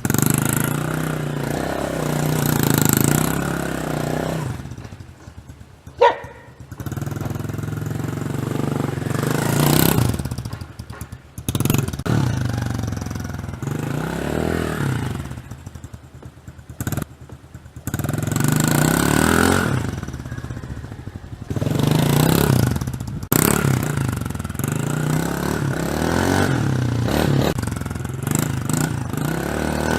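Pressure washer running and spraying, its motor hum and the hiss of the jet cutting out and starting again several times as the trigger is released and pulled, with a sharp click about six seconds in.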